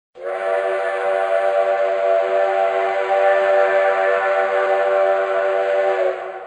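Steam train whistle sounding one long blast of several notes held together as a chord, steady for about six seconds and then fading away.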